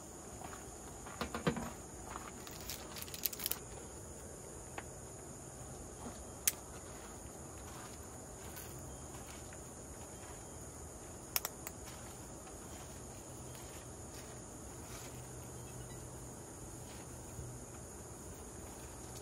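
Insects calling in one steady, high, unbroken tone, with a few scattered light clicks and knocks: several close together in the first few seconds, then single ones about six and eleven seconds in.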